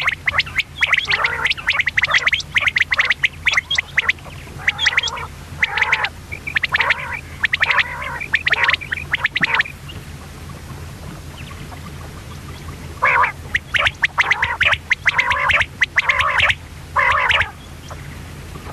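Common quail calling in quick, raspy, chattering bursts for the first ten seconds or so, then a pause of about three seconds before another run of bursts. A steady low hum runs underneath.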